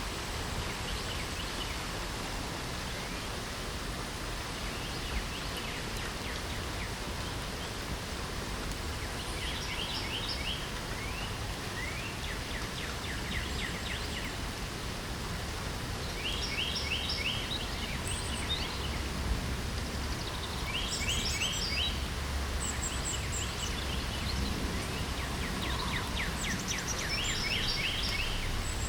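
Steady hiss of light rain, with songbirds singing over it: short phrases of fast repeated notes, about five of them in the second half, and a few thin high calls.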